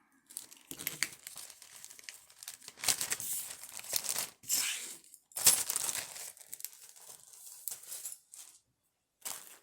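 Small plastic bag being crinkled and rustled in the hands, in irregular bursts of varying loudness.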